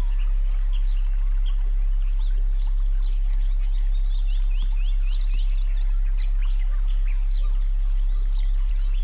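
Nature-sounds track of many short bird chirps over a steady high insect-like hiss, with a strong, steady deep hum under it all. There is a quick run of rapid chirps in the middle.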